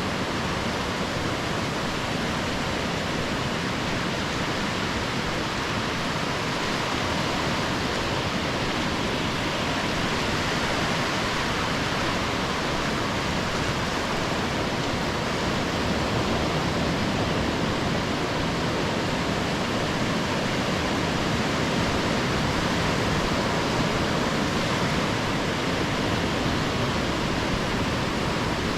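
Steady, even rushing of surf breaking along a sandy beach, with no rise and fall between waves.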